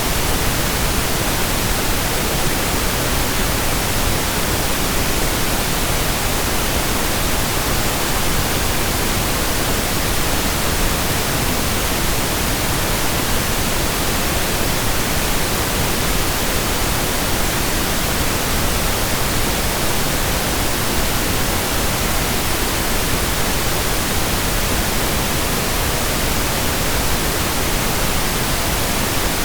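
Steady synthetic pink noise: an even, unchanging hiss spread across the whole range, with no tones or events.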